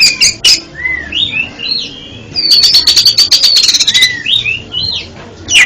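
Oriental magpie-robin (kacer) singing: loud, varied whistled notes that slide up and down, and a fast run of clicking notes over a high held note in the middle of the phrase.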